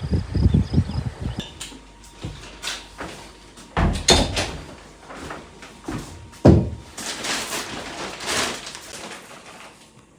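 Irregular knocks, bumps and scraping of objects being handled, with sharp knocks about half a second, four and six and a half seconds in.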